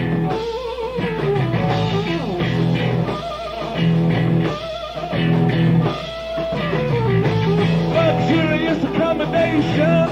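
Live rock band playing a slow blues, with a wavering electric guitar lead over sustained bass notes.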